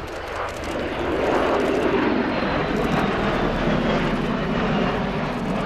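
Bell-Boeing CV-22B Osprey tiltrotor making a fast pass in airplane mode at about 250 knots, its twin Rolls-Royce AE1107C turboshafts and proprotors swelling loud about a second in. A faint high whine falls slowly in pitch as it goes by.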